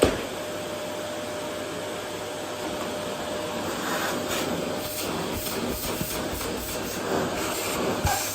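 Vacuum cleaner running steadily over a wooden floor, a constant rushing noise with a faint steady whine. A sharp knock comes right at the start, and a few lighter knocks follow later on.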